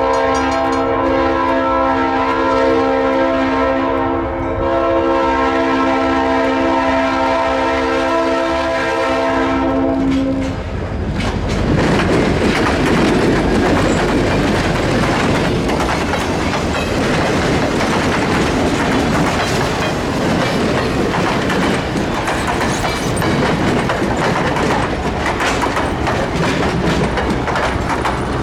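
Leslie RS3L three-chime air horn on an EMD GP30 diesel locomotive sounding one long chord, which cuts off about ten seconds in. Then the train rolls past close by, with a steady rumble and wheels clicking over the rail joints.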